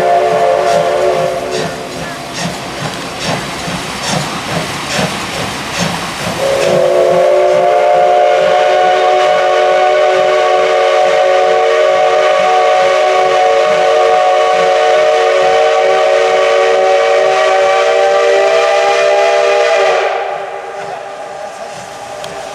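Steam whistle of the SL Ginga's C58 steam locomotive, sounding as a chord of several tones. A blast dies away about a second in, and the locomotive's exhaust chuffs about twice a second. Then one long blast of about thirteen seconds cuts off sharply near the end.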